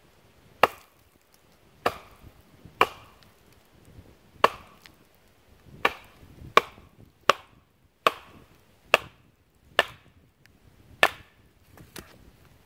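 Wood being chopped or split with a bladed tool: about a dozen sharp, hard strikes at uneven intervals of roughly a second.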